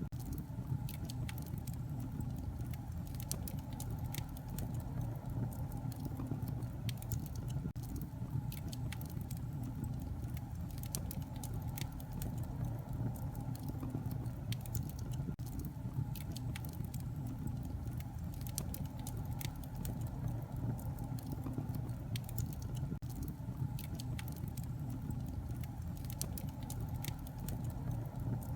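Wood fire burning in a fireplace, crackling: a steady low rumble of flame with many scattered sharp pops.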